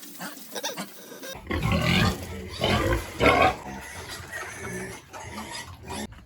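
Domestic pigs grunting and calling in their pens, several calls in a row, loudest about two to three and a half seconds in.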